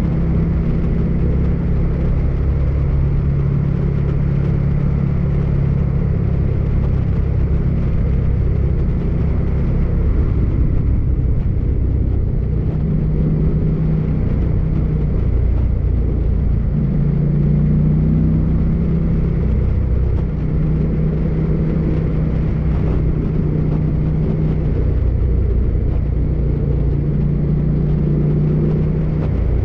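Motorcycle engine running at steady cruising speed under wind and road noise. The engine note climbs briefly a little past halfway and then settles back.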